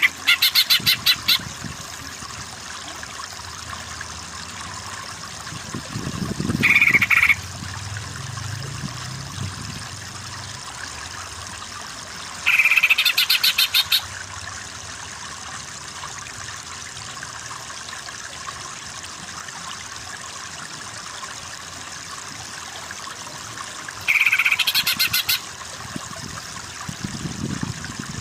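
Rapid, harsh rattling trill calls from a bird, four short bursts several seconds apart, over a steady background of running water.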